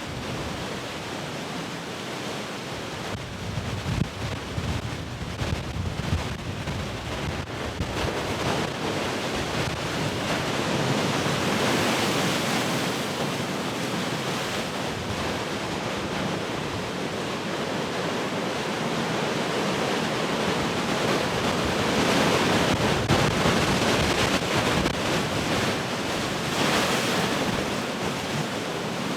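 Heavy ocean surf breaking and washing in a continuous roar that swells and eases over several waves. Gusts of wind buffet the microphone, with a few low thumps in the first few seconds.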